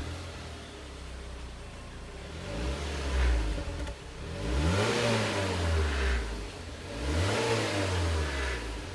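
2011 Mazda 6's 2.5 L four-cylinder engine on its stock exhaust, idling and then revved three times, each rev rising and falling back. Most of the noise comes from under the hood rather than out of the exhaust pipe.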